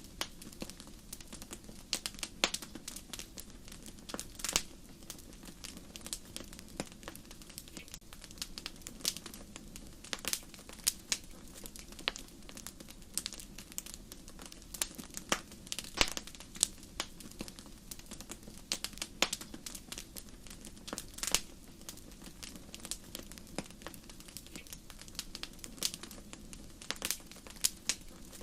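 Fire crackling in a fireplace: irregular sharp pops and snaps, several a second, with a few louder ones scattered through, over a steady low hiss of the flames.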